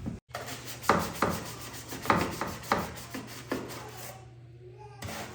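Irregular sharp knocks and scraping on a wooden surface, about seven strikes a few tenths of a second to a second apart, over a steady low hum.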